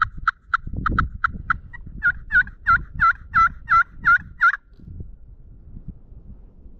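Turkey yelping: a quick run of short clucking notes, then about eight loud, evenly spaced yelps that stop about four and a half seconds in. Low rustling runs underneath.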